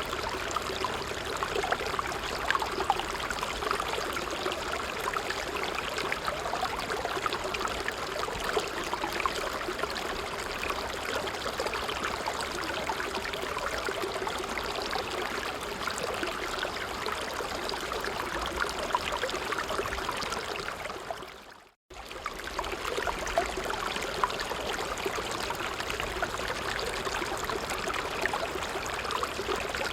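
A creek running over stones: a steady babbling, trickling rush of water. About 21 seconds in it fades out to near silence for a moment, then cuts straight back in.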